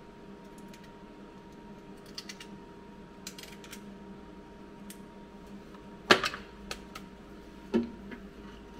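Welder putting on tack welds: two short crackling bursts about a second apart. They are followed by two sharp metal knocks, the first the loudest, over a steady electrical hum.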